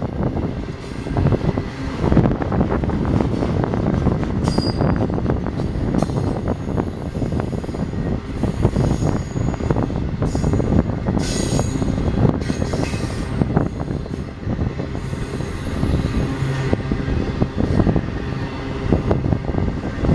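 BNSF container train rolling past: a steady rumble and rapid clatter of steel wheels on rail, with a few brief high wheel squeals, one about four seconds in and others around the middle.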